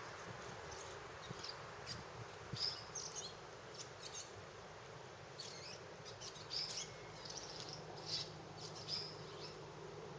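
Quiet outdoor ambience: a steady hiss with scattered short, high chirps coming every second or so.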